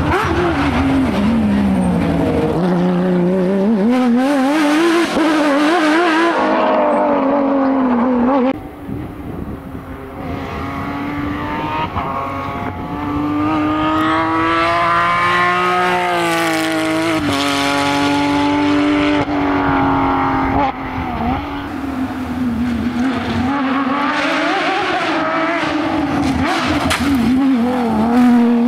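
Porsche 911 flat-six rally car being driven hard: the engine revs climb and fall again and again through gear changes and braking, with a sudden lift off the throttle about eight seconds in.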